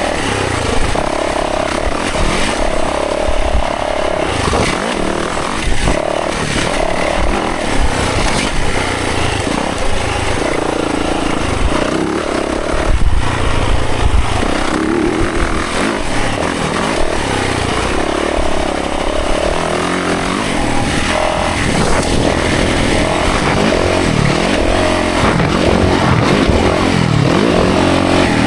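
Dirt bike engine revving up and dropping back over and over as it is ridden along a trail.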